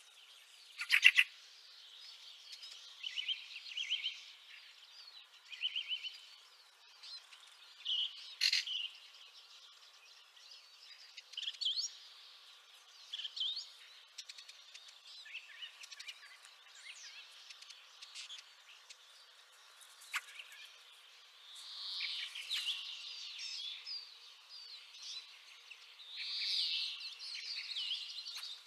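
Fieldfares calling: short rattling chatter calls in bursts of quick repeats, with two louder calls about a second in and again near nine seconds, and a denser chorus of chattering toward the end.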